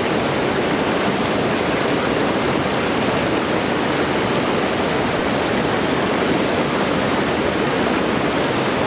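Steady, loud rush of fast-flowing river water close to the microphone, with no breaks or changes.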